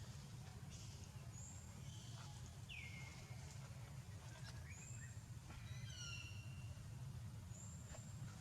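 Several short, high-pitched animal calls over a steady low hum, including a falling squeal about three seconds in and a short multi-toned call about six seconds in.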